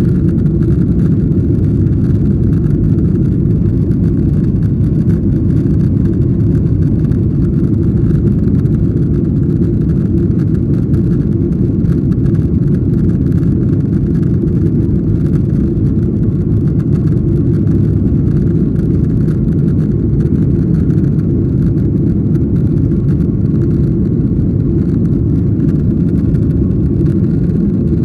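Steady low rumble of an airliner's cabin in flight: jet engine and airflow noise, loud and unchanging.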